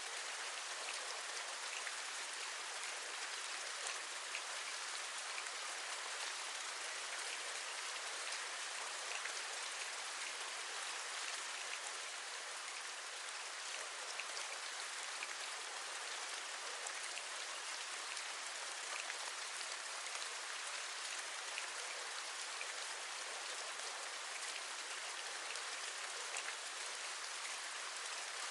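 Steady rain falling, an even hiss with faint scattered ticks of single drops tapping.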